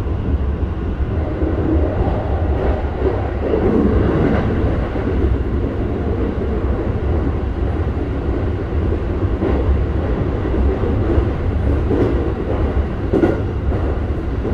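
Interior running noise of a Keikyu 1000 series electric train car: a steady rumble of the wheels on the rails, with a few brief knocks from the track.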